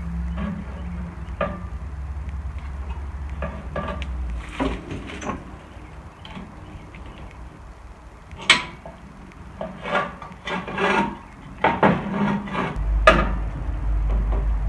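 Tools and metal parts being handled while a lawn tractor's starter motor is fitted back on: scattered clicks, scrapes and knocks, the sharpest about eight and a half seconds in and another near thirteen seconds. A low steady hum runs underneath at the start and returns near the end.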